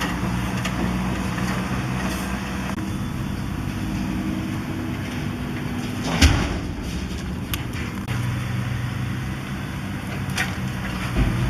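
Demolition excavator's diesel engine running steadily, its pitch shifting about eight seconds in. There is a loud bang about six seconds in and a smaller knock near the end.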